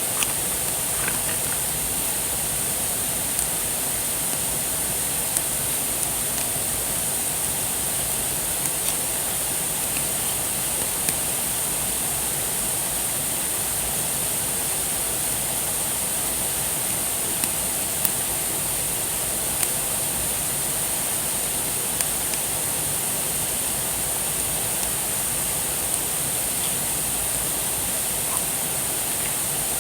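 Wood fire burning, with sparse sharp crackles and pops every second or two over a steady high hiss.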